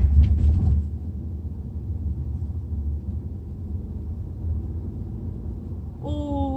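Hyundai Tucson NX4 heard from inside the cabin while driving: a steady low road-and-engine rumble, a little louder in the first second.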